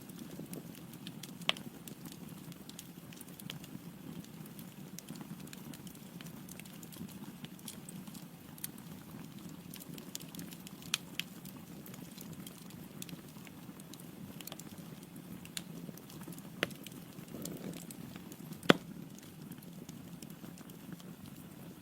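Log fire burning in a fireplace: a steady low rumble of flames with scattered sharp crackles and pops from the wood, one pop much louder than the rest near the end.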